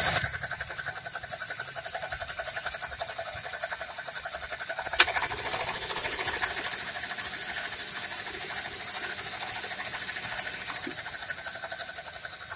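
Toyota Avanza engine idling with a fast, even ticking running through it, several beats a second, and one sharp click about five seconds in. It is an unusual engine noise whose cause the owner does not know.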